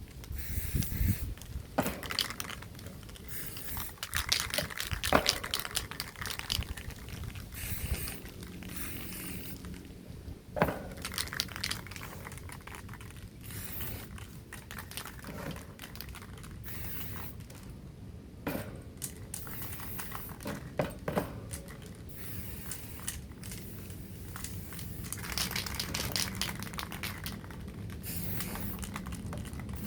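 Crinkling and rustling of something being handled, with scattered clicks and knocks and a few longer stretches of hiss.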